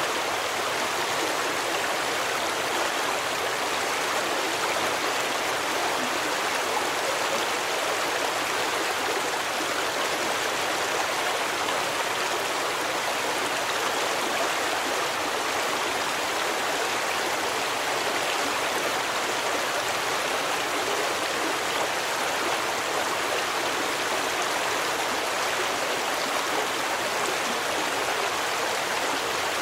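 Steady rush of a flowing stream, an even water noise with no breaks or distinct splashes.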